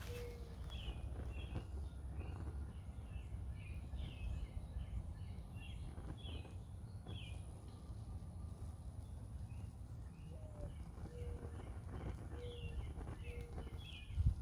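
Small birds chirping repeatedly in short falling chirps, with a lower short call now and then, over a steady low rumble. A brief knock sounds near the end.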